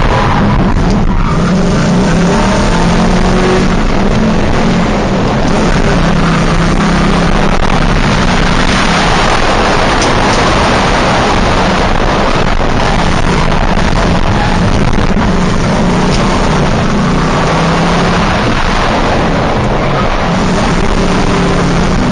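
Drift car engine running hard at high revs, its pitch wavering up and down as the throttle is worked, under a loud rush of noise that swells around the middle.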